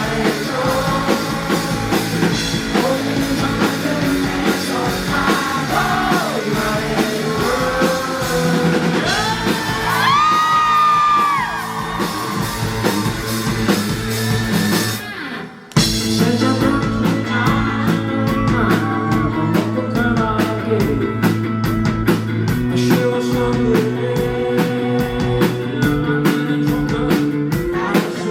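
Live rock band playing with a lead singer; about ten seconds in the voice slides up into a long held high note. About halfway through the band stops for a moment, then comes straight back in.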